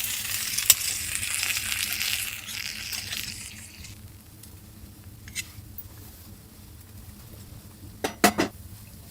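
Food sizzling in a pan, the sizzle dying away after three or four seconds. Near the end a utensil knocks against the pan three times in quick succession.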